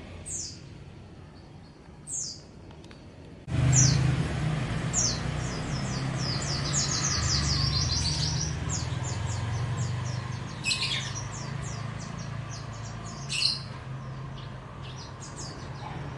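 Small songbirds chirping, with a few single sweeping calls and then rapid runs of twittering notes. About three and a half seconds in, a low steady hum starts suddenly and continues under the birds.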